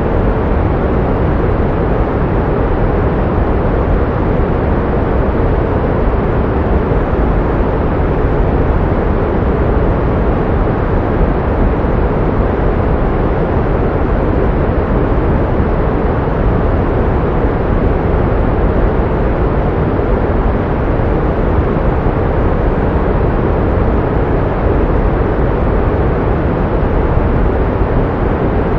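Pink noise: a steady, unchanging hiss weighted toward the low end, like a deep rushing.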